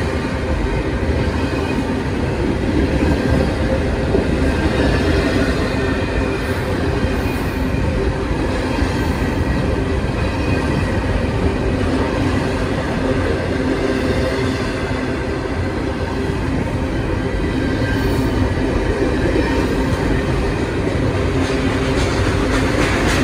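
Union Pacific double-stack intermodal train's well cars rolling past at speed: a steady rumble of steel wheels on rail, with faint high steady tones from the wheels.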